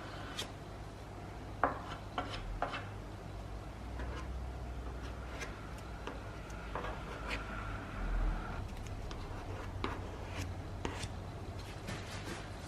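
Light rubbing and scattered small clicks and taps of handwork over a steady low hum.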